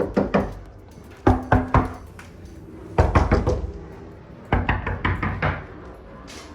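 Repeated knocking in quick groups of three or four sharp strikes, four groups a second or so apart.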